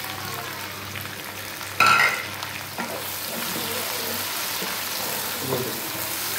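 Chopped tomatoes going into a wok of hot oil and fried onions: a brief loud burst about two seconds in as they land, then steady frying sizzle with a wooden spatula stirring and scraping.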